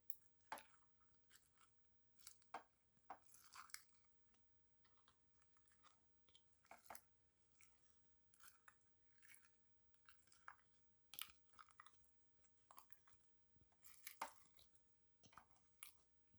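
Faint, irregular clicks and crackles, a few each second.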